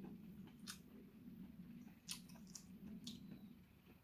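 Faint chewing of chewy marinated baby octopus, with a few sharp wet mouth clicks, over a steady low hum.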